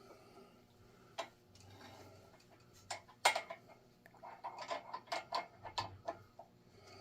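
Tap being worked by hand into a hole in an engine block to cut new threads: scattered sharp metallic clicks, one loud click a little after three seconds, then a quick run of clicks in the second half.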